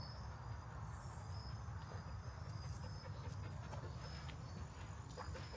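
Woodland walking ambience: a steady low rumble of wind on the camera microphone, light crackles of footsteps on the forest floor, and faint short high chirps repeating every second or so.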